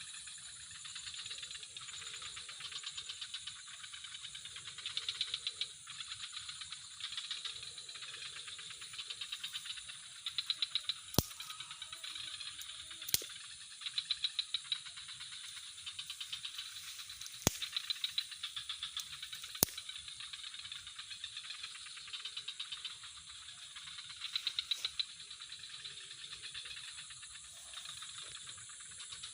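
Insects chirring in rapid pulsed trills that swell and fade in short runs, over a steady high hum of other insects, with four sharp clicks in the middle stretch.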